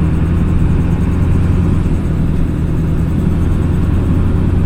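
Vehicle engine and road noise as a steady low drone, heard from inside the vehicle while driving.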